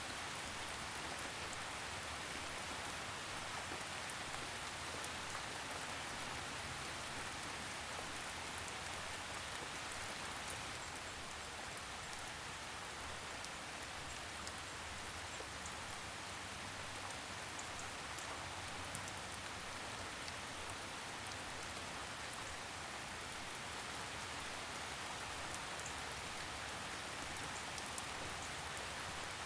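Steady forest rainfall, an even hiss of rain with scattered drops pattering on leaves.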